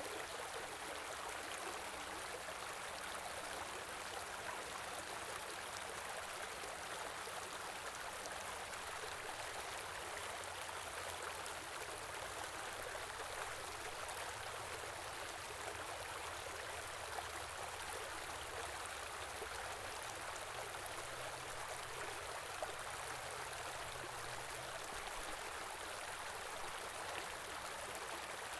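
Small river or stream flowing steadily, an even rushing and babbling of water.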